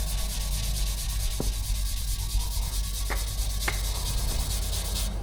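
Red Scotch-Brite abrasive pad scrubbing a steel motorcycle exhaust pipe by hand: a steady, rapid abrasive rubbing, with a few light ticks.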